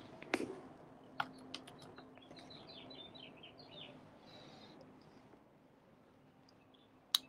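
A songbird outside giving a quick run of about eight short, high chirps about two seconds in, with a few sharp clicks scattered just before it.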